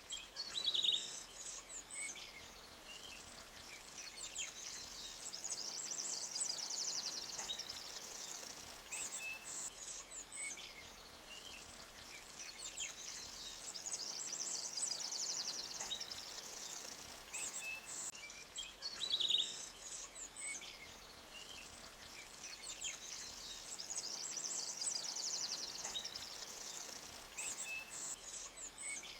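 Woodland birds chirping and singing fast high trills over a faint steady wash of running stream water. The same passage of calls comes round again about every 18 seconds.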